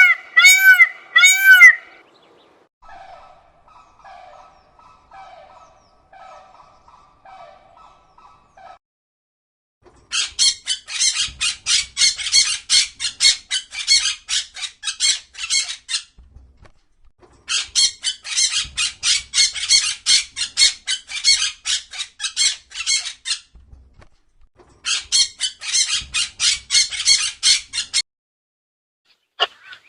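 A run of animal calls, mostly birds. Loud pitched calls come in the first two seconds, then faint calls, then three long runs of rapid harsh squawks, several a second, separated by short pauses.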